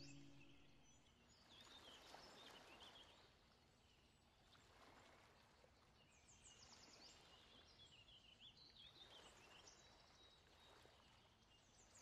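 Faint outdoor ambience: a soft steady wash of water and air, with small birds singing short, quick chirps and trills several times.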